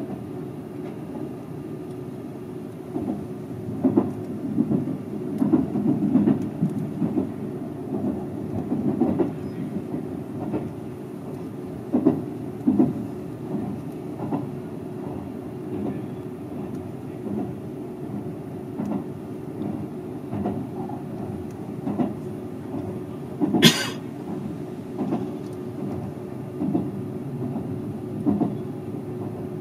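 Seibu 001 series Laview limited express train running at speed: a steady rolling rumble with a faint hum, and wheels knocking over rail joints in an irregular clickety-clack. One sharp, louder crack stands out about three-quarters of the way through.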